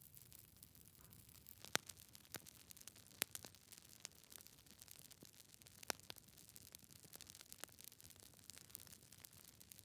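Wood logs burning in a fireplace: irregular sharp crackles and pops over a faint steady hiss. The loudest pops come about two, three and six seconds in.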